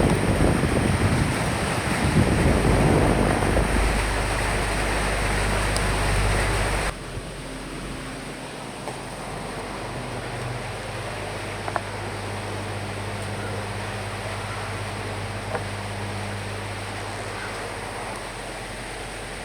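Strong, gusty wind with rain for about the first seven seconds, then an abrupt drop to a quieter, steady rain hiss with a few faint ticks.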